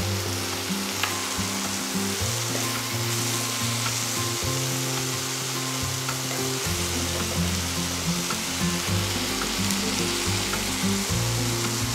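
Chopped onion and tomato sizzling steadily in oil in a non-stick kadhai while a spatula stirs them, salted so the tomatoes soften. Soft background music plays underneath.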